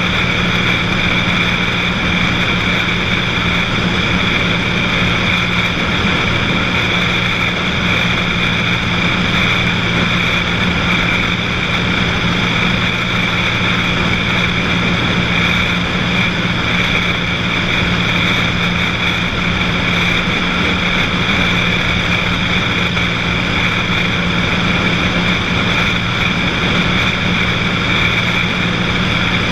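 Cessna 182 light aircraft's piston engine and propeller running at a steady, unchanging drone in flight.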